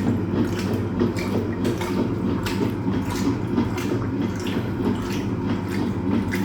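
Hoover Automatic 820 washing machine partway through its wash cycle: water sloshing and splashing in the drum over a steady low motor hum.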